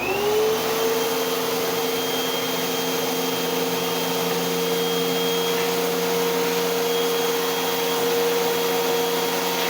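Eureka AirSpeed Unlimited pet vacuum cleaner running just after being switched on. Its motor whine rises in pitch over the first half second, then holds steady over a loud rush of air.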